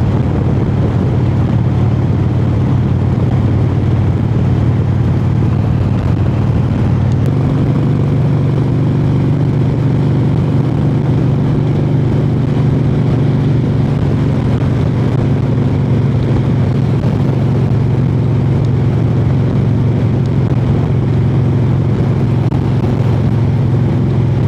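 Harley-Davidson Heritage Softail V-twin engine running under way at a steady cruise. Its drone shifts about seven seconds in and then holds steady.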